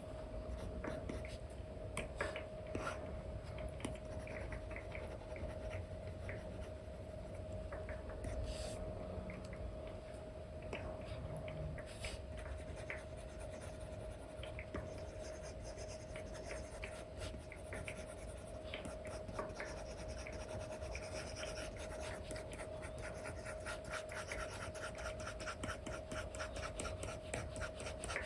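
Apple Pencil nib scratching and tapping on an iPad's paper-like screen film in short brush strokes, becoming quick back-and-forth strokes near the end, over a faint steady hum.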